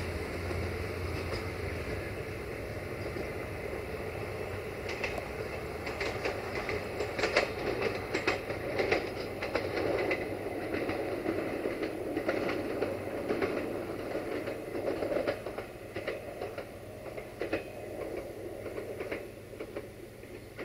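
Siemens Desiro diesel multiple unit running through the station: a steady engine hum at first, then wheels clicking over rail joints from about six seconds in, the sound fading near the end as it moves off.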